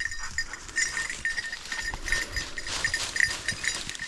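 Bird dog's collar bell jingling in quick, uneven rings as the dog works through the brush searching for a downed bird, over low rustling of vegetation.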